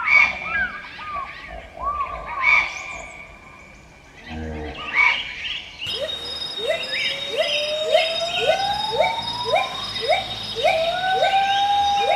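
Animal calls: short sweeping chirps, then a sudden change about six seconds in to a fast run of short rising calls, about two a second, over a slowly rising glide and a steady high tone.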